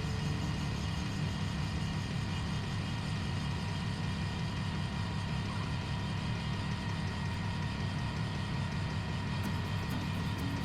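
A machine running steadily, a low continuous hum with faint steady tones above it.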